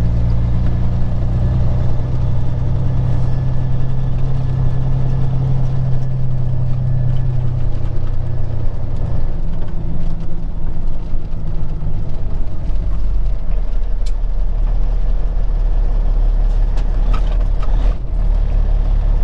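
Peterbilt 379 semi truck's diesel engine running steadily under way, heard from inside the cab with road noise. The engine note shifts lower about nine seconds in and again a few seconds later.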